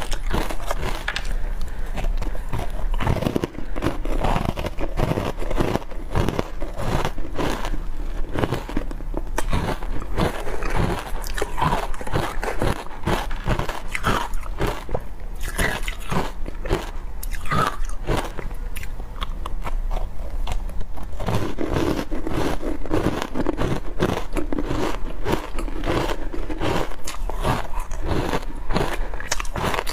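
Ice being bitten and chewed: a dense, continuous run of crunches.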